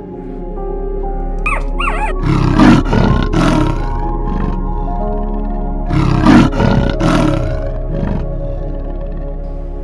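A large animal roaring twice, each roar lasting about a second and a half, over background music.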